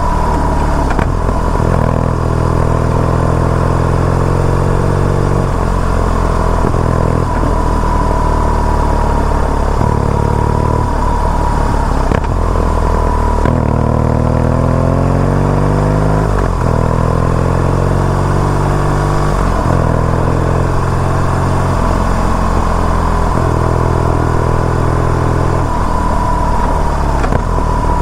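BMW R nineT Urban G/S's 1170 cc boxer twin engine running on the move, its revs rising and falling several times with gear changes and throttle.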